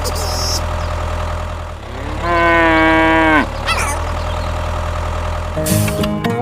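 One long, low animal call about two seconds in, lasting about a second and dropping in pitch at its end, over a steady low mechanical hum. Guitar music starts near the end.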